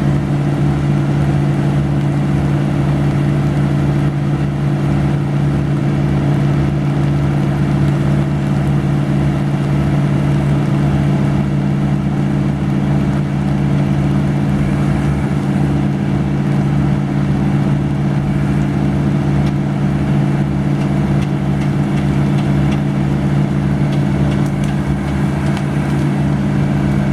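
Engine of heavy tree-removal equipment running steadily at a constant speed.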